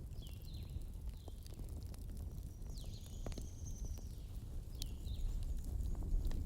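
Campfire burning with a steady low rumble and scattered sharp crackles and pops of the wood, while birds chirp a few short calls in the background.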